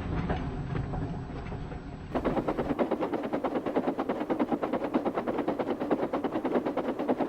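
Freight trucks' wheels clattering fast over rail joints, a quick even rattle of about nine clicks a second that starts suddenly about two seconds in after a fading low rumble: the trucks running away with the engine.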